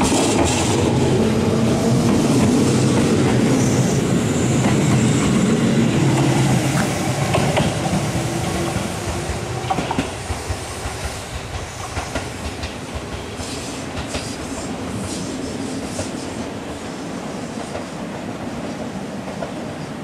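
Tobu 6050 series electric train pulling out and passing close by, its wheels and running gear clicking over the rail joints. It then runs away up the line, the sound dropping off after about ten seconds and fading steadily.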